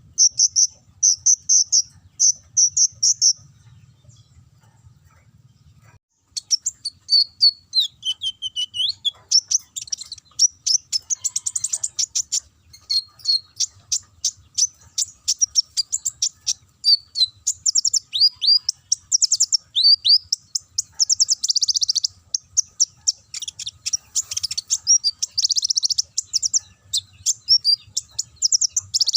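A kolibri ninja (sunbird) singing a fast, high, canary-like song. It opens with a rapid run of chirps, breaks off for about three seconds, then sings on in dense, varied twittering with trills and quick up-and-down sweeps.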